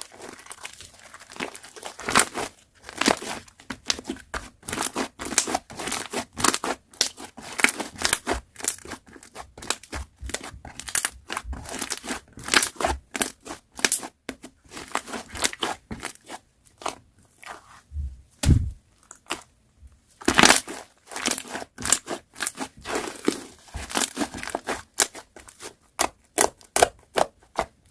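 Slime being squeezed, pressed and stretched by hand, making a dense run of irregular crackling and popping clicks.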